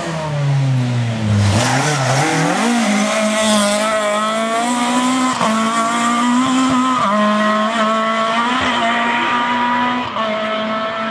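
Rally car engine coming off the throttle with falling revs, then accelerating hard and holding high revs through the gears. A rush of tyre noise comes about two seconds in as the car turns in.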